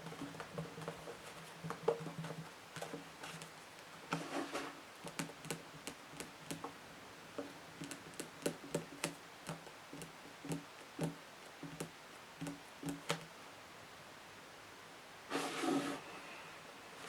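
Fingernails tapping on books, many quick light taps at an uneven pace, some with a faint hollow ring. There are two short bursts of scratching, one about four seconds in and one near the end.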